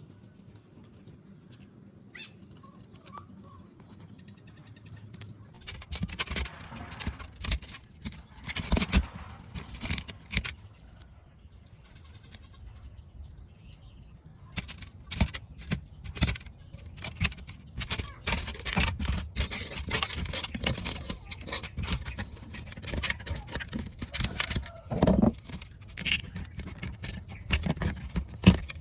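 Irregular clicks, knocks and scraping, typical of hands and tools working on small parts, starting about five seconds in after a quiet opening.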